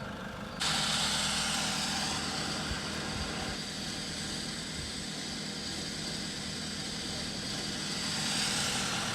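Engine of a stuck Nissan Patrol Y61 off-roader running, with a loud steady hiss that starts suddenly about half a second in and eases a little midway.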